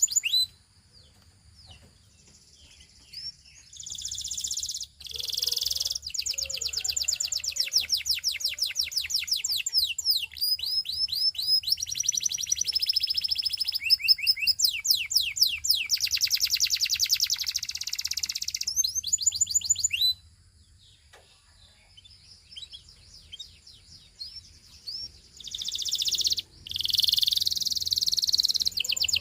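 Canary singing in long phrases of rapid trills, fast repeated notes and rising and falling whistles, with short pauses between phrases: one near the start and one about two-thirds of the way through.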